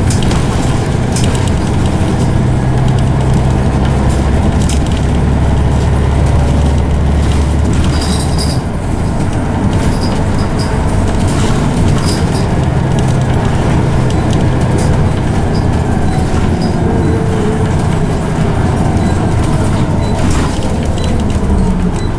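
Scania OmniCity single-deck bus heard from inside the saloon while driving, engine and ZF automatic gearbox running with the loud ZF whine. A deep engine drone eases about a third of the way in, and later the whine slides up and down in pitch. Small interior rattles click throughout.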